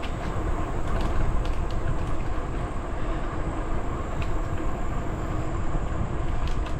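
Steady low rumble of a moving bicycle: wind on the microphone mixed with the tyres rolling on the trail, with a few faint light ticks.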